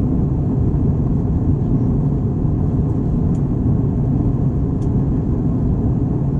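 Steady low rumble of engine and airframe noise heard inside an Airbus A321's passenger cabin, with two faint ticks around the middle.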